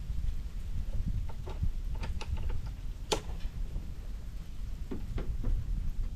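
Wind buffeting the microphone in a low, steady rumble, with scattered irregular ticks and clicks over it; the sharpest click comes about three seconds in.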